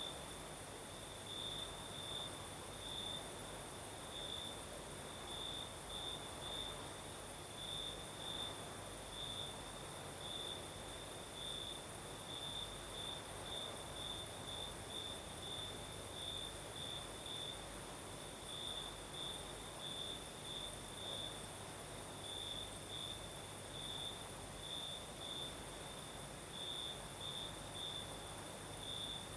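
Crickets chirping in irregular quick pulses over a continuous higher-pitched insect trill, with a soft breeze underneath.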